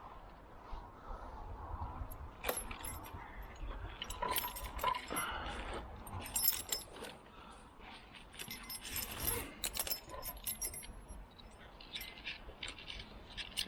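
Metal tree-climbing hardware clinking and jingling in irregular bursts as it shifts on the rope, over a low wind rumble on the microphone.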